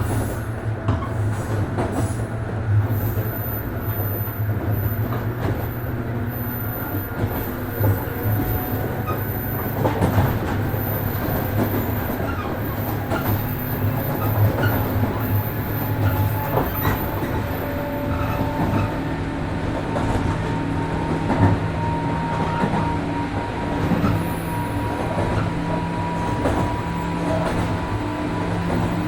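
Running noise inside a 103 series 1500-subseries electric train in motion: a steady low hum of traction motors and gears with wheels clicking over rail joints. In the second half a thin motor tone rises slowly in pitch.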